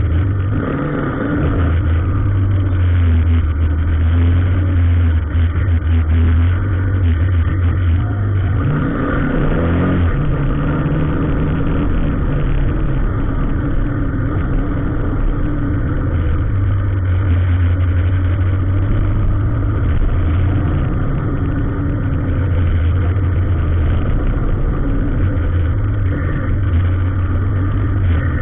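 Motor vehicle engine running with a steady low drone under road noise; about eight to ten seconds in an engine revs with a short rise in pitch, and the deep low hum fades for several seconds before it returns.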